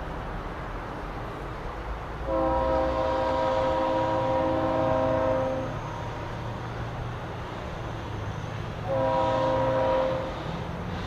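Leslie RS3L three-chime air horn on a GE C40-8W diesel locomotive sounding one long blast and, a few seconds later, a shorter one, part of a grade-crossing horn sequence. Under the horn runs the steady low rumble of the passing train.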